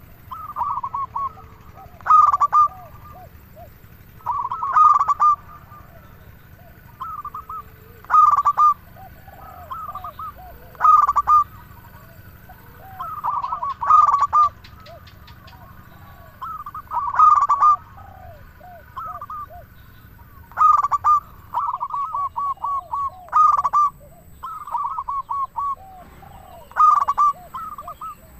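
Zebra dove (perkutut) singing: a rolling phrase of quick coos repeated about every three seconds, with softer, lower coos in between.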